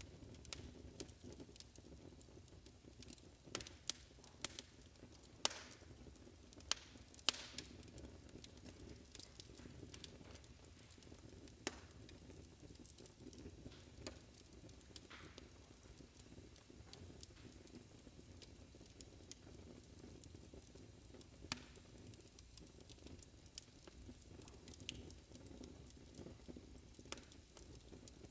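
Fireplace crackling, faint: a steady low hiss of burning with irregular sharp pops and snaps, a cluster of louder pops a few seconds in.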